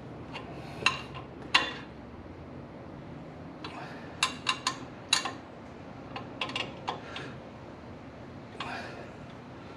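Hand tools clinking and clicking against steel brake and suspension parts, in irregular clusters of sharp metallic clicks with a couple of short scrapes.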